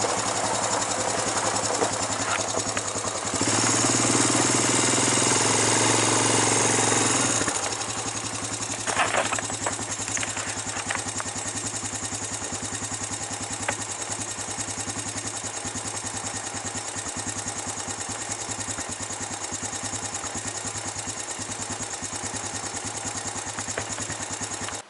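An engine running steadily with a fast even pulse, speeding up and getting louder for about four seconds a few seconds in, then settling back to a steady idle, with a few short knocks around nine seconds in.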